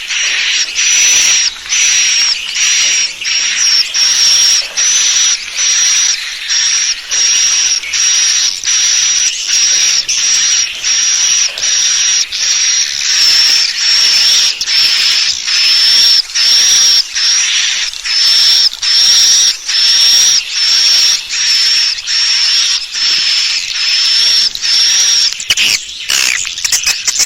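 Swiftlet lure call: a looped recording of swiftlet chirps, a high, buzzy twitter repeating about twice a second without a break, played to attract swiftlets to roost in a nesting house.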